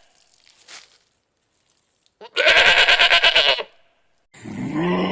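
A goat bleating once, a loud, quavering cry of about a second. Near the end a lower, steady animal call begins.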